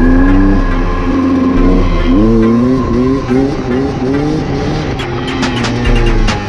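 Dirt bike engine revving up and down in quick repeated blips.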